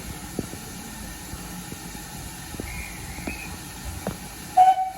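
A steady hiss, then near the end a short, loud steam locomotive whistle blast on one note that cuts off abruptly.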